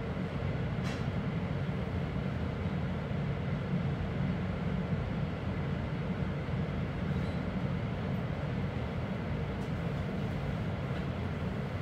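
RE7 regional train heard from inside the carriage, running at low speed: a steady low rumble of wheels on the track and running gear.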